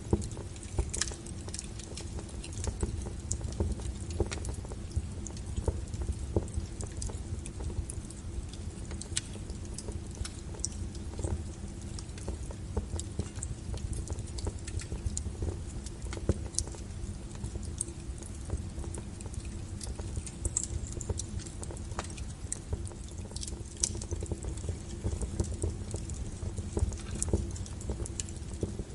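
Wood logs burning in a fireplace: irregular sharp crackles and pops over a low steady rumble of the flames.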